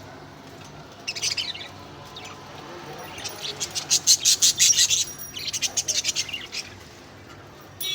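Budgerigars chattering: a short burst of chirps about a second in, then a longer run of fast, high warbling chirps from about three seconds to six and a half seconds.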